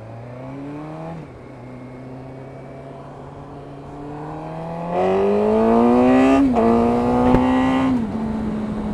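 Suzuki GSX-R 600's inline-four engine through its stock exhaust, accelerating with rising pitch and changing up a gear about a second in. It pulls harder and louder from about four seconds in, changes up again sharply around six and a half seconds, and eases off near the end.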